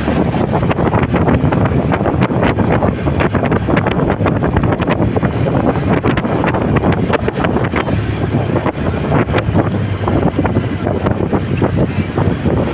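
Wind buffeting the microphone of a camera on a moving motorcycle, a loud steady rush with rapid fluttering gusts over the sound of the ride.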